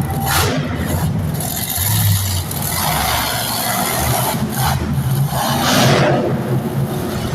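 Monster truck engine running loudly and revving, a rough low engine note under a wide rushing noise that swells and eases several times.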